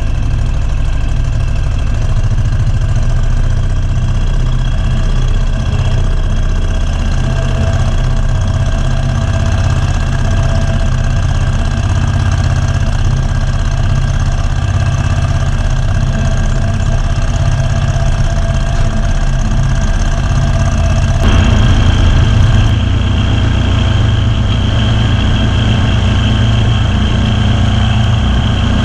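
Kawasaki FX1000V V-twin engine on a Ferris zero-turn mower running steadily just after starting. About two-thirds of the way through, its note steps up to a higher, louder pitch and holds there.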